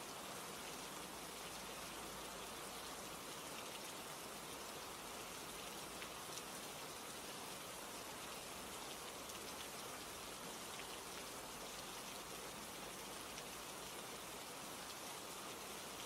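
Soft, steady rain ambience with scattered light ticks.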